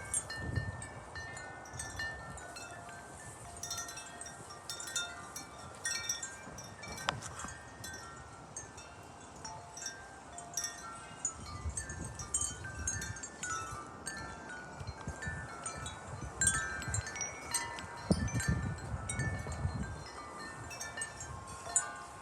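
Wind chimes ringing continuously as gusts swing them, many overlapping tones struck in irregular clusters. Wind rumbles on the microphone in gusts, strongest near the end.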